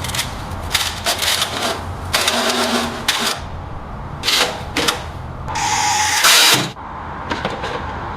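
Metal clicks and knocks of tools and transmission parts being handled during disassembly, over a steady low hum, with a louder, briefer whirring sound about five and a half seconds in.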